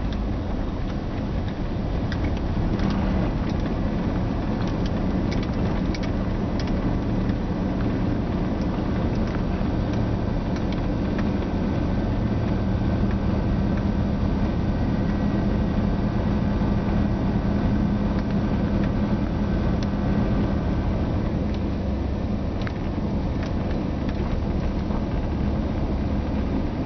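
Steady motor vehicle noise: a continuous low hum and rumble that holds even throughout.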